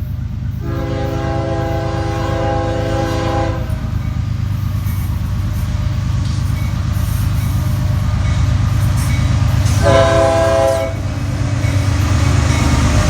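Diesel freight locomotive's horn sounding a long blast of about three seconds, then a short blast about ten seconds in, over the steady low rumble of the train.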